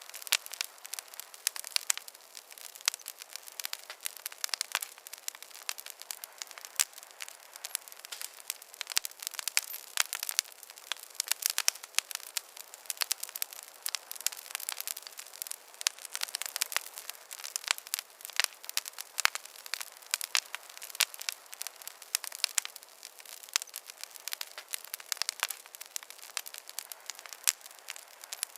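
Wood fire crackling in a fireplace: a steady stream of sharp pops and snaps of varying loudness over a faint hiss.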